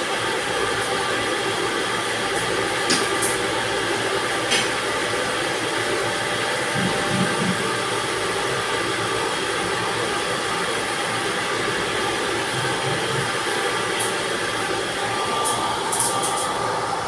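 Steady machinery noise, a continuous drone with a few faint clicks.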